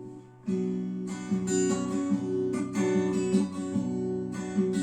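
Acoustic guitar strumming chords as the introduction to a song. A held chord fades, then steady strumming starts about half a second in.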